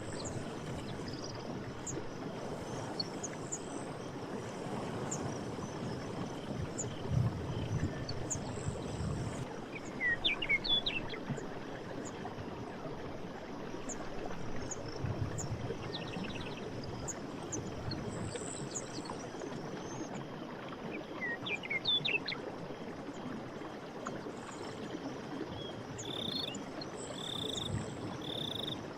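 Forest night ambience: a steady rushing background that swells now and then, a bird's quick chirping call twice, and faint insect ticks. Near the end, insects start chirping in short, evenly spaced pulses.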